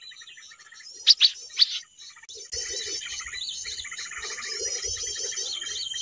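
Small birds chirping: three loud, sharp chirps about a second in, then dense, continuous twittering with a steady high whine under it.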